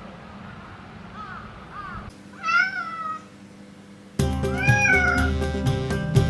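A domestic cat meows twice: first a loud, drawn-out meow, then, about two seconds later, another meow over background music. Faint short chirps come before the first meow.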